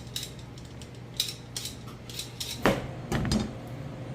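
A scatter of light clinks and knocks of utensils and cookware, with one louder knock about two and a half seconds in.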